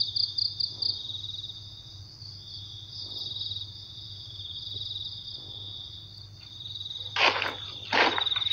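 Night insects, crickets, chirping in a steady pulsing trill, over a low hum. About seven seconds in, a few loud bursts of noise come through.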